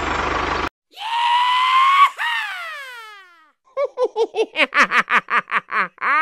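A high-pitched voice, likely a cartoon-style effect: a held cry that rises slightly and then slides down, followed by a quick run of giggling bursts about five a second. It comes in right after a steady motor noise cuts off abruptly, a little under a second in.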